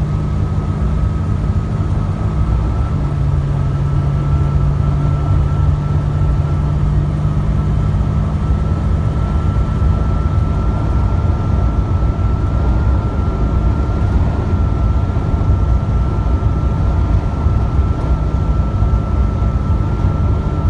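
Semi-truck diesel engine running steadily at highway speed with tyre and road noise, heard inside the cab; the engine's low drone drops slightly in pitch about three seconds in.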